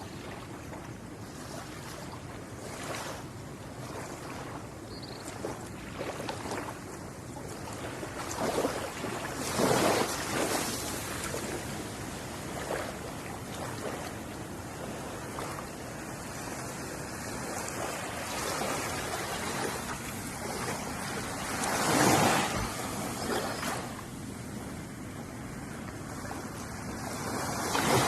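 Ocean waves breaking and washing on a beach, with a steady wash of surf between them; the biggest waves crash about ten seconds in, at about twenty-two seconds, and again near the end.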